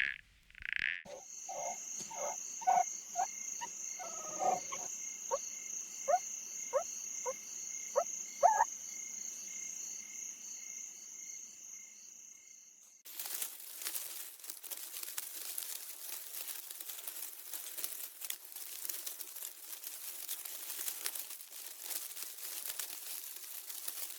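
Frogs croaking, a string of short calls over a steady high-pitched chorus of trilling frogs or insects. About halfway through it cuts abruptly to a dense crackling hiss.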